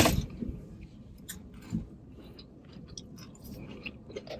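A person chewing a mouthful of salad close to the microphone: a loud crunching bite right at the start, then scattered wet mouth clicks and softer crunches.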